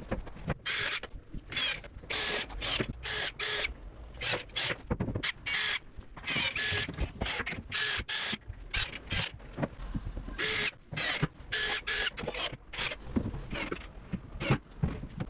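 A small power tool's motor whirring in many short bursts, starting and stopping every fraction of a second to a second.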